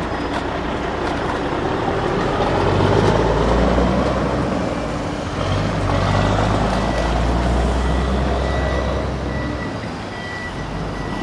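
A steady, low heavy-vehicle engine rumble. A faint high-pitched beeping, like a reversing alarm, repeats on and off in the middle.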